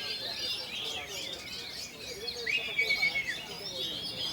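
Oriental magpie-robin (kacer) singing: a fast run of varied chirps and whistles, with one longer held whistle a little past halfway through.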